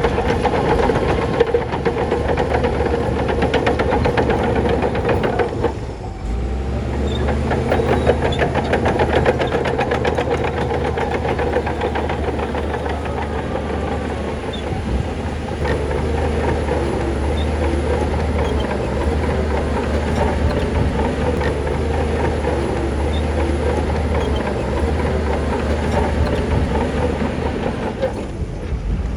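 Heavy diesel earthmoving machinery working: a steady low engine note under a continuous metallic clatter, with a brief break about six seconds in.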